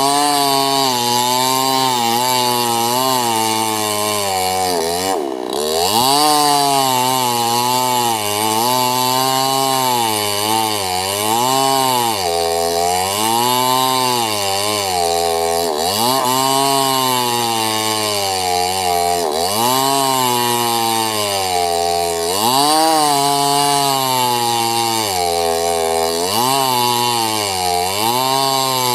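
Small two-stroke chainsaw cutting sengon wood. The engine pitch sags and climbs back every few seconds as the chain loads up in the cut, with one deep dip about five seconds in.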